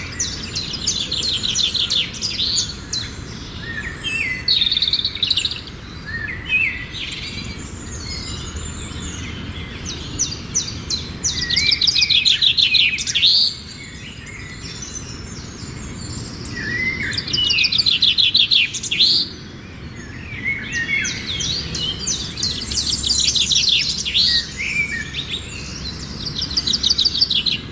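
Songbirds singing in repeated bursts of rapid, high trills and chirps, each burst lasting a few seconds with short pauses between, over a steady low background hiss.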